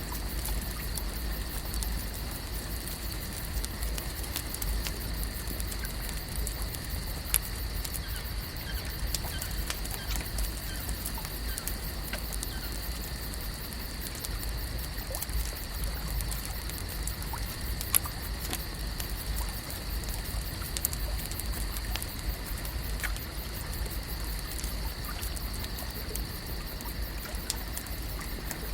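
Lakeside ambience: water lapping and trickling under a steady low rumble, with a faint steady high hum and many scattered small clicks and ticks.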